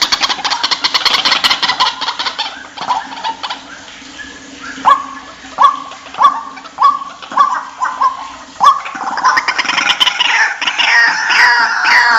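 White-breasted waterhens calling: a fast rattling series first, then a run of single rising croaks about one every 0.7 s, then from about nine seconds in a dense, louder chorus of overlapping repeated calls.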